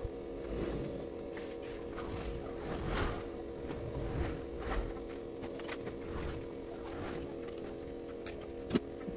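Small plastic building-block pieces being handled and clicked together, with scattered short clicks, the sharpest near the end, over a steady low hum.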